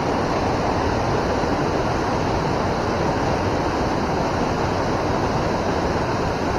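Steady rush of flowing river water, an even wash of noise without breaks.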